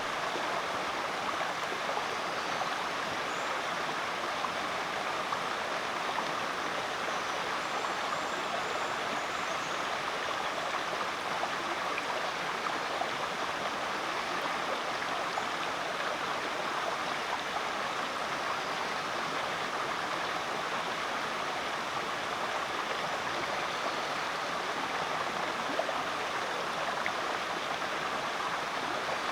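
Creek water flowing steadily in a continuous rushing babble.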